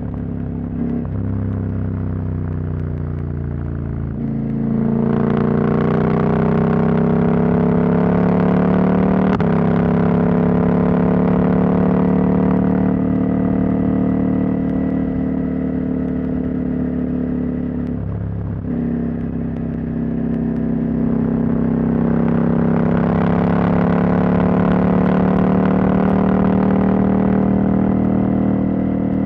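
Husqvarna Norden 901's 889 cc parallel-twin engine, its catalytic converter removed, pulling under way with the pitch climbing as it accelerates through the gears. Brief breaks for gear changes come about one, four and eighteen seconds in, each followed by a long steady rise.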